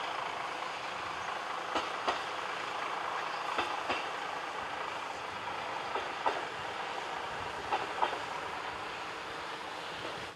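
Nemuro Line diesel railcar running slowly, at about 30 km/h, with steady rolling noise. Its wheels click over the rail joints in pairs, a pair about every two seconds.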